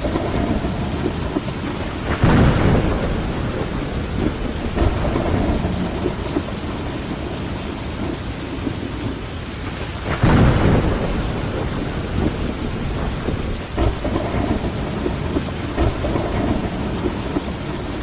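Steady heavy rain against a window with rolling thunder underneath, the rumble swelling in waves and peaking twice, about two seconds in and again about ten seconds in.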